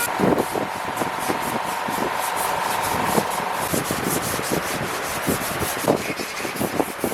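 Sanding on a car body panel where old body filler lies, a scratchy rhythm of quick repeated strokes, with a faint steady whine during the first half.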